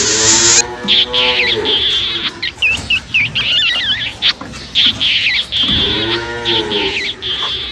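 An animal calling twice: two long drawn-out calls about five seconds apart, with high chirping between them.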